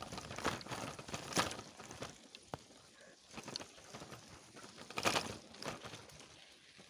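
Irregular rustling and crackling of someone moving over dry forest floor, with louder crunches about a second and a half in and about five seconds in.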